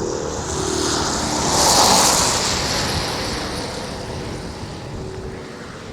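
Antonov An-22's four NK-12 turboprops with contra-rotating propellers passing low overhead: a rushing engine noise that swells to a peak about two seconds in, then fades away.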